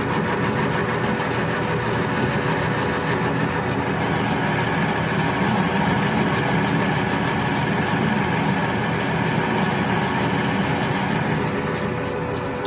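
South Bend metal lathe running steadily with a hum and a steady whine, its carbide tool cutting a radius into the end of a threaded stud. A high hiss runs with it and stops shortly before the end.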